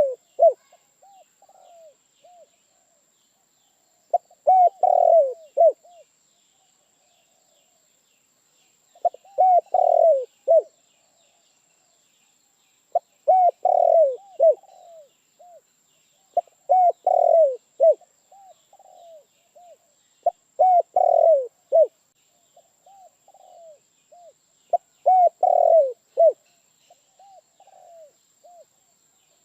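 Spotted dove cooing its song over and over, one phrase about every four seconds: a loud run of coos trailed by a few softer ones. Small birds chirp faintly behind it.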